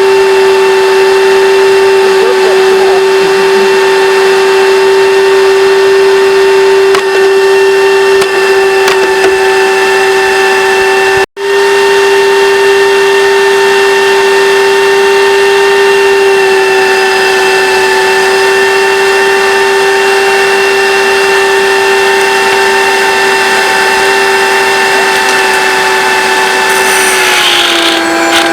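Hoover Dimension Supreme vacuum cleaner motor running at full speed with a loud, steady high whine. It cuts out for an instant about eleven seconds in, and near the end its pitch sags briefly before coming back up.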